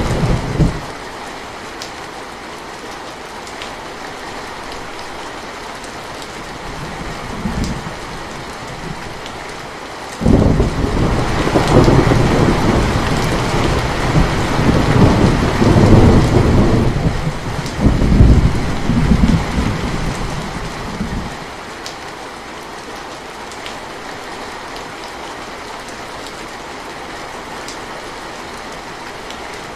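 Steady rain with rolling thunder: a rumble dies away in the first second, a short low rumble comes about a quarter of the way in, and a long, loud rolling peal starts about a third of the way in and lasts about eleven seconds.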